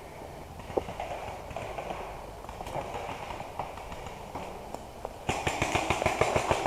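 Scattered soft footsteps and rustles, then about five seconds in a rapid volley of paintball marker shots breaks out, sharp pops at roughly eight a second.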